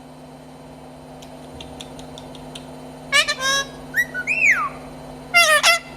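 Pet parrot whistling and calling. A few faint clicks come first, then a short call about three seconds in, a whistle that rises and falls, and a loud call near the end.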